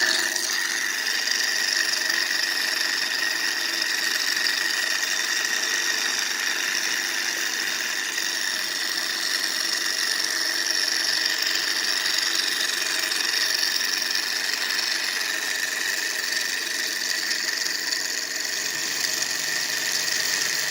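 Small model Stirling engine running fast with no generator load: a steady mechanical whir with a high, even whine.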